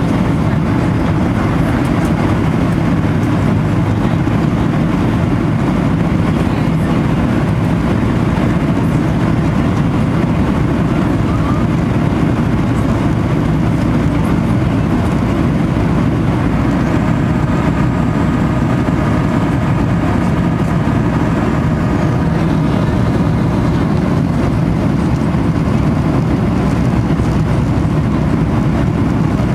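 Steady, loud rumble of an airplane's engines and airflow, even throughout, with a faint higher tone for a few seconds past the middle.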